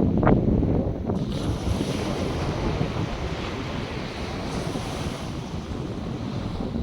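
North Sea surf washing steadily onto the beach, with wind buffeting the microphone, strongest in the first second.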